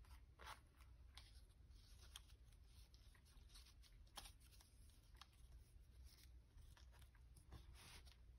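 Near silence, with a few faint, brief rustles and taps of paper being handled on a craft table.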